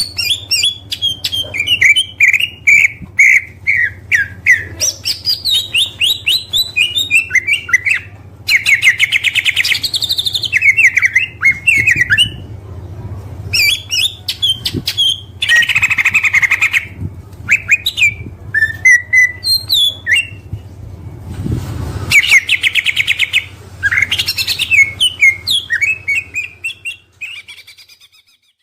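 Oriental magpie-robin (kacer) singing a loud, varied song of chirped and whistled phrases. These are broken three times by dense rapid buzzing trills, the 'tembakan' bursts, over a low steady hum. The song fades out just before the end.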